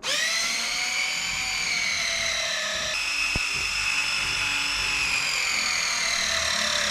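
Pipe press tool (ProPress-type) running a press cycle on a 1-inch ball valve fitting: a steady electric motor whine that starts suddenly and slowly sags in pitch as the jaws close on the fitting.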